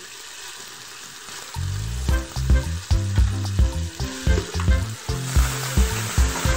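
Chicken pieces sizzling as they fry in hot oil, the sizzle growing louder a little before the end. About one and a half seconds in, a bass-heavy music track with a steady beat comes in and is the loudest sound.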